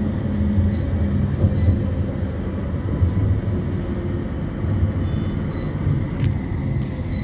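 Ride noise heard inside a CAF Urbos 3 tram on the move: a steady low rumble of wheels on rail, with a faint steady whine above it.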